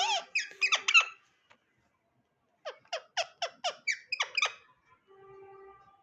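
A pet parrot giving quick, repeated squawking chirps in two bouts, about four or five a second, then a short steady held note near the end.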